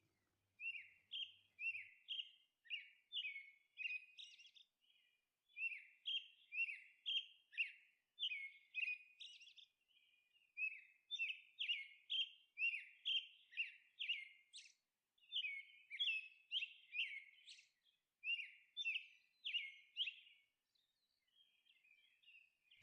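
Faint bird chirping: short, high notes repeated several times a second in runs, with brief pauses between the runs, stopping shortly before the end.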